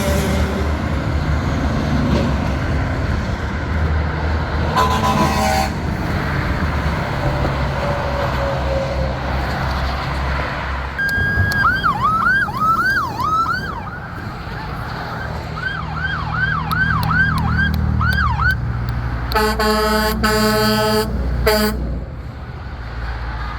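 Diesel big-rig trucks rumbling past, with a short air horn blast about five seconds in. From about eleven seconds an emergency vehicle's siren yelps in quick rising and falling sweeps for several seconds, then truck air horns blast loudly twice near the end.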